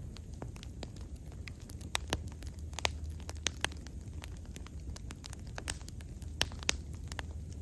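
Wood bonfire crackling: sharp, irregular pops and snaps over a low, steady rumble of the flames.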